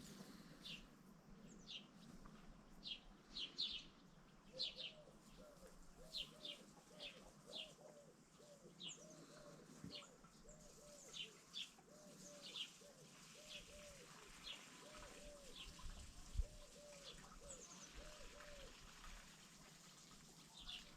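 Birds calling faintly: many short, high chirps, joined by a lower call repeated over and over in quick groups. A single low bump about three-quarters of the way through.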